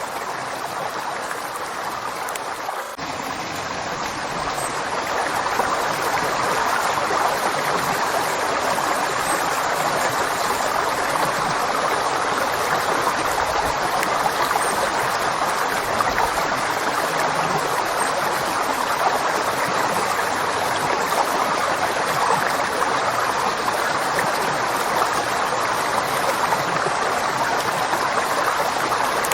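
River water flowing and rushing steadily, with no other sounds. It gets a little louder a few seconds in, then holds even.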